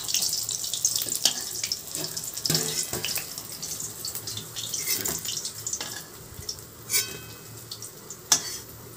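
Shrimp fritters sizzling in hot oil in a steel kadai, with a metal spatula scraping and clicking as they are lifted out. The sizzling thins after about six seconds, and a sharp metallic clink near the end comes as a fritter is set down on a steel plate.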